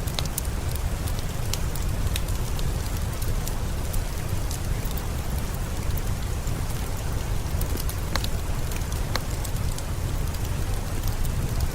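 Steady rain ambience with a low rumble underneath, dotted with scattered sharp pops and crackles from a wood fire.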